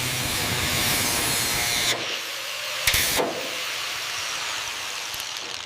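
Steady hissing noise, dropping quieter about two seconds in, with a short sharp burst of hiss near three seconds.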